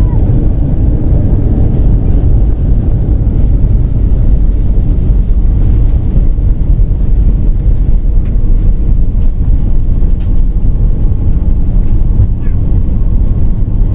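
Loud, steady low rumble inside the cabin of an Airbus A320 during landing: engine and airframe noise with the roar of the aircraft on or near the runway.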